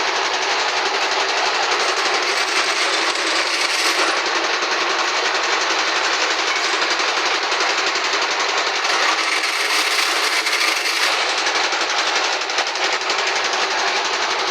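Welding arc crackling steadily and continuously, a dense rapid sputter without pauses.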